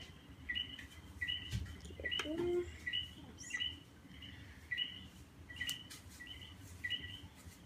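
A bird chirping over and over: short high chirps, about one every two-thirds of a second.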